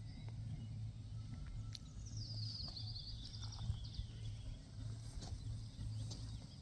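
A small bird sings a rapid trill of high notes for about a second and a half, over a low steady rumble.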